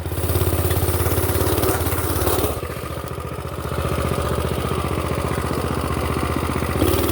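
Mini bike's small single-cylinder engine running at idle, its firing pulses steady; it eases off about two and a half seconds in and comes back up a second or so later.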